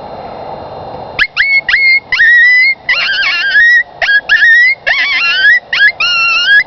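Cow horn howler predator call blown in coyote-style vocalizations. A quiet first second gives way to a fast run of short yips and longer wavering howls, about ten in all, each starting with a sharp drop in pitch.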